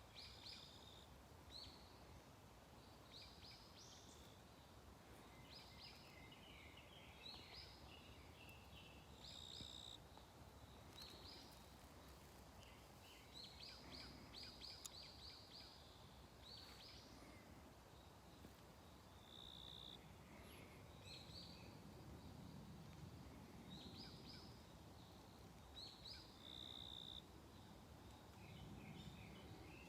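Faint songbirds calling: repeated clusters of short, high chirps every second or two, with a few brief, steady whistled notes, over a low outdoor background rumble.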